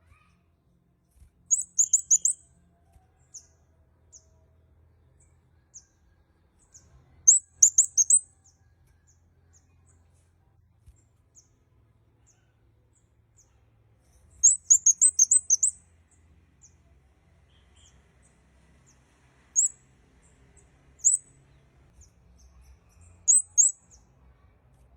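Kemade kepala merah singing: very high, thin chirps in quick clusters of rapid notes, the longest run about halfway through, with single notes between the clusters.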